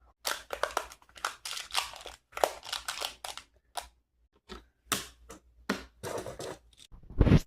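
Close-up crunching and crinkling noises in quick, irregular bursts, like something being crushed or crumpled, ending with a louder bump near the end.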